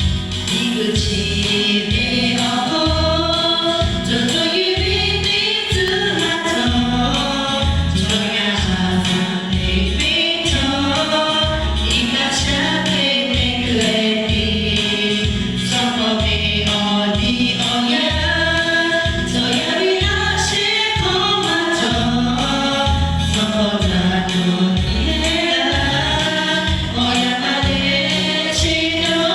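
A choir singing a gospel worship song over band accompaniment with a steady beat.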